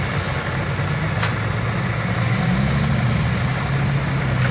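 Diesel dump truck engine running, its pitch rising as it revs up a little over two seconds in. A brief sharp hiss cuts in about a second in.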